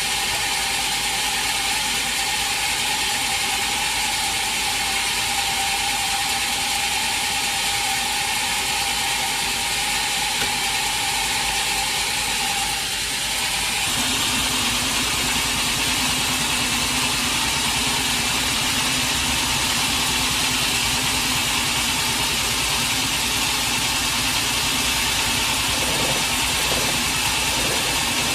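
Sawmill machinery running steadily. A steady high hum over mechanical noise gives way abruptly about halfway through to a different steady running sound with a lower, engine-like hum.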